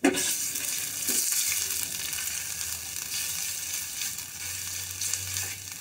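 Chopped garlic and ginger-garlic paste sizzling in hot oil in a stainless steel saucepan. The sizzle starts suddenly as the paste goes in, while a silicone spatula stirs it.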